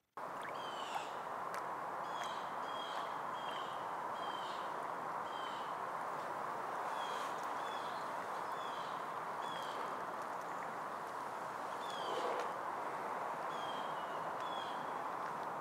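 A small bird calling in short, falling chirps, many in a row at irregular intervals with a pause of a couple of seconds past the middle, over a steady rushing background noise that comes in abruptly at the start.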